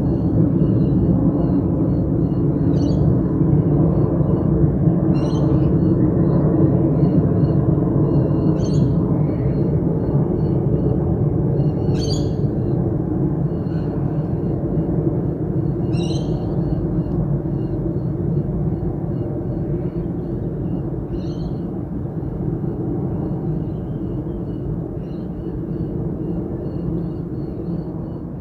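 A jet airliner passing overhead: a loud low rumble that slowly fades. A bird calls about every three to four seconds, with faint chirping underneath.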